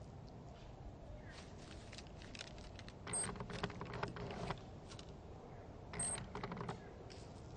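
Two short bursts of rapid clicking and tapping, about three seconds apart, each starting with a brief high chirp.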